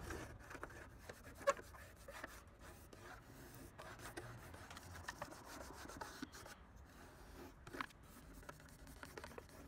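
Faint rubbing of fingers pressing aluminum auto body tape flat onto a car's body panel to work out the air bubbles, with a few small clicks.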